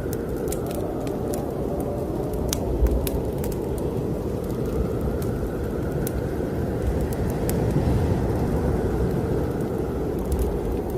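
Snowstorm wind blowing with a deep rumble and a hollow howl that swells through the middle, over a wood fire in a fireplace crackling and popping irregularly.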